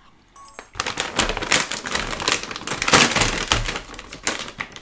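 Close-miked crunching of hard Nature Valley Crunchy oats-and-honey granola being chewed: a dense, loud crackle of many small cracks that starts about a second in.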